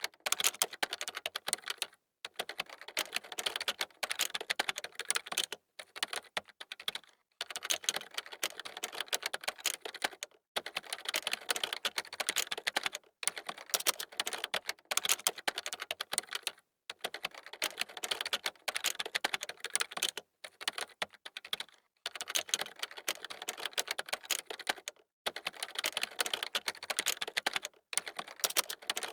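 Fast typing on a computer keyboard: dense runs of key clicks, broken every few seconds by a short pause.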